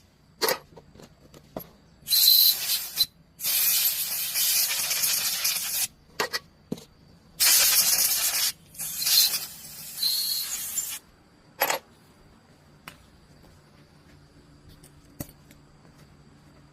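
Repeated bursts of hissing spray, each lasting one to two seconds, with short gaps and a few sharp clicks in between.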